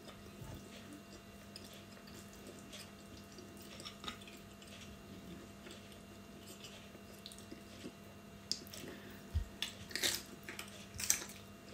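Quiet eating: faint wet chewing and mouth clicks, then a few crisp crunches near the end as a cucumber slice is bitten.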